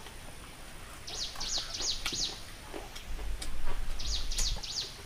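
A songbird singing a repeated phrase of quick, high, falling notes, twice, about two and a half seconds apart, with a few light clicks and a brief low rumble near the second phrase.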